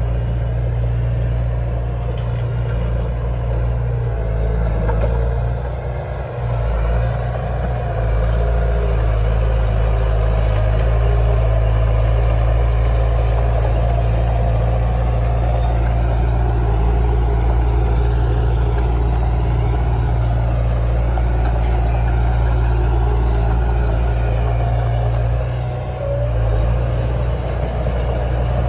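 Komatsu D31 bulldozer's diesel engine running steadily at working revs, with a brief dip in load twice.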